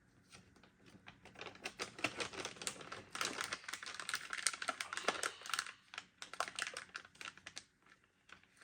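Thermal paste kit's packaging being opened and handled: rapid crinkling and clicking of plastic and paper, busiest in the middle few seconds.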